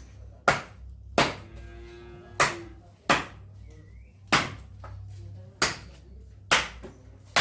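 A blade chopping into wood, shaping a wooden stirring paddle: about seven sharp strikes at an uneven pace, under a second or so apart, each with a short ring.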